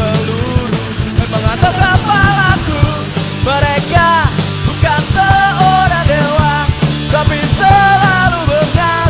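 Punk rock band playing an instrumental passage: a lead line that bends and slides in pitch over drums and bass.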